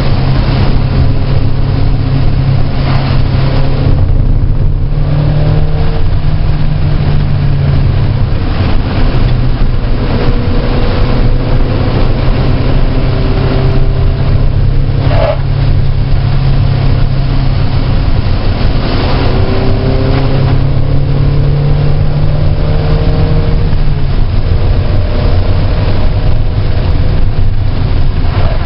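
Car engine running loudly at track speed on a wet circuit, over a steady hiss. The engine note shifts a few times as the car lifts and gets back on the throttle.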